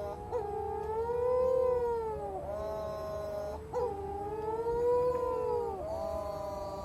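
Young petrels crying together at night: several long, overlapping wails, each rising and then falling in pitch over two or three seconds, one call giving way to the next without a break.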